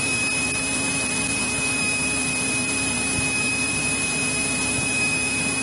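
Steady drone of a Cessna 172E's Continental O-300 six-cylinder engine and propeller in flight, heard inside the cabin, with a steady thin high whine over it.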